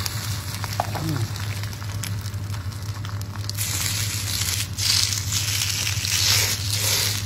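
Egg frying on the hot plate of a waffle iron, a steady crackling sizzle. It grows louder about three and a half seconds in as raw sausage meat is pressed onto the hot plate beside it.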